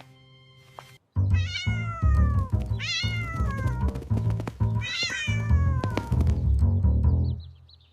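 Kitten meowing several times, each call falling in pitch, starting about a second in, over background music.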